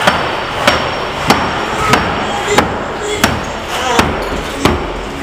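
Hammer blows in interior house demolition: about eight sharp strikes in a steady rhythm, roughly two-thirds of a second apart.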